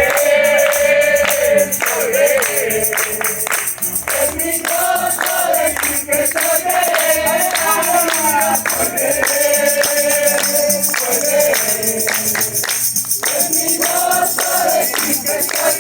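A group of voices singing a gospel chorus in Spanish, with a tambourine keeping a steady beat.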